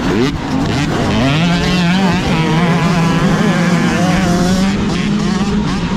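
Dirt bike engines revving and pulling away, the pitch climbing through the first second or so and then holding steady with a wavering note, over a low rumble.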